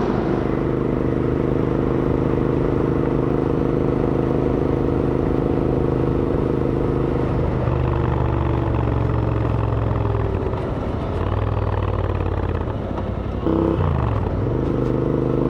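Royal Enfield Interceptor 650's parallel-twin engine running through AEW aftermarket exhausts, holding steady revs while cruising. About halfway through the revs drop lower for several seconds. Near the end the pitch dips briefly and then climbs again as the bike picks up speed.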